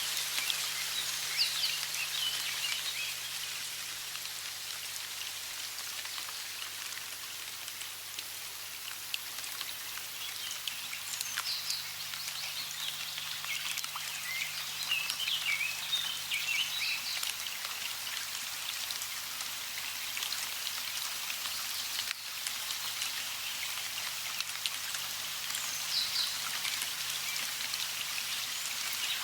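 Steady hiss of running water, with birds chirping in clusters of short calls about a second in, through the middle, and again near the end.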